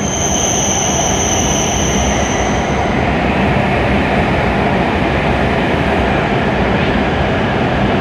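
W7 series Shinkansen train pulling into the station platform, a loud steady rush and rumble of the train rolling in. A high-pitched squeal sounds over it for the first three seconds or so and then fades.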